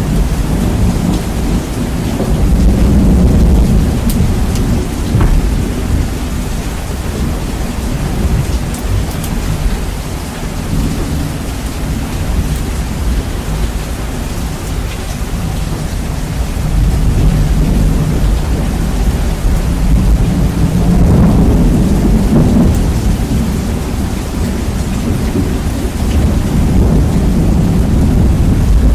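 Heavy rain with rolling thunder, bass-boosted and heavily distorted, the low rumble swelling twice.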